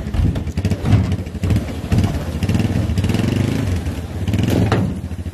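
Apollo 250 dirt bike engine running, with the throttle blipped a few times so the revs swell briefly about a second in, again around two seconds, and near the end.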